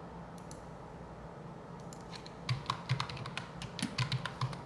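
Typing on a computer keyboard: a quick run of key clicks begins a little past halfway, over a faint steady low hum.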